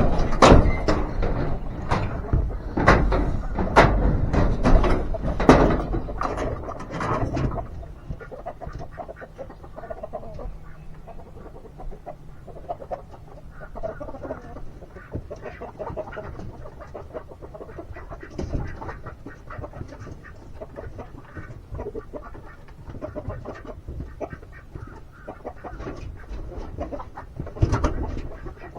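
Chickens clucking in a pen, with a loud scuffle of knocks and rustling for about the first seven seconds and again briefly near the end.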